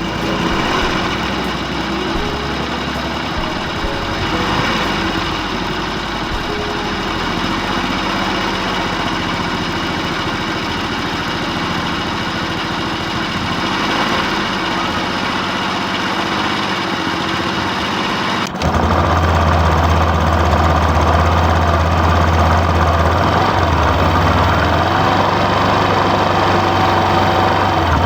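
Radio-controlled toy construction vehicles running, a steady engine-like motor sound. About two-thirds through it changes abruptly to a louder run with a strong deep hum.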